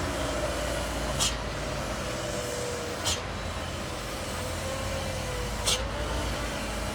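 Heavy truck running under load with a steady rumble and a slowly wavering engine tone. Three short, sharp hisses come about two seconds apart.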